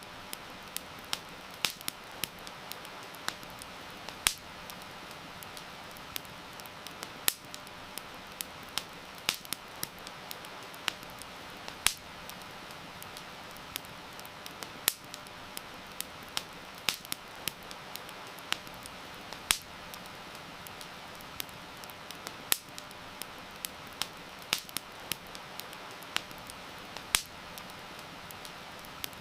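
Campfire crackling, with irregular sharp pops and snaps a few times a second, over a steady hiss of rain.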